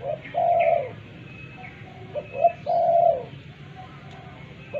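Spotted dove cooing: two phrases, each one or two short notes followed by a longer coo that falls in pitch at its end. A third phrase begins right at the end.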